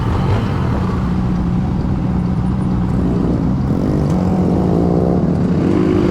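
Honda Monkey 125 single-cylinder motorcycle engine running steadily on the road, with more engine tones rising and falling from about halfway through.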